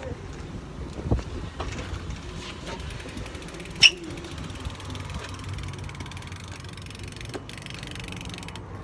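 Light mechanical clicking and rattling over a low rumble, with one sharp click about four seconds in.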